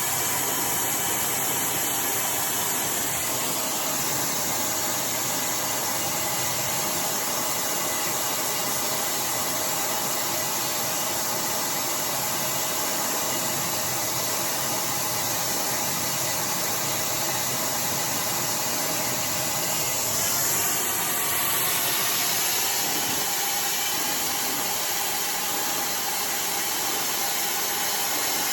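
iDryer AI Pro Style hair dryer blowing steadily, with a brief change in the rushing sound about two-thirds of the way through.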